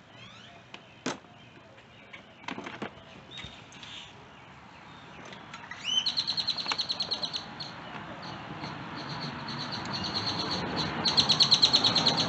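A bird's fast, high trill of rapidly repeated notes, twice: about six seconds in and again near the end. Before it come a few sharp clicks, and behind it a background rush that slowly grows louder.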